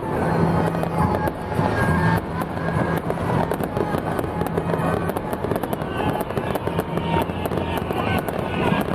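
Fireworks and firecrackers going off in a rapid, irregular crackle of sharp pops and bangs, over music.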